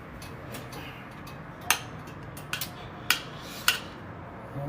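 Cutlery clinking against a dish while eating: a handful of sharp, separate clicks a second or so apart over a quiet background.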